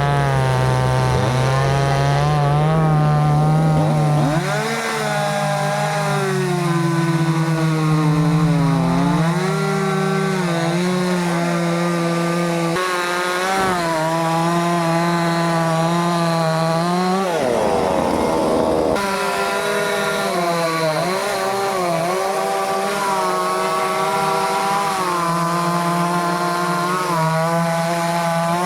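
Chainsaw engine running near full revs while cutting wood, its pitch dipping and recovering again and again as the chain bites and bogs in the cut.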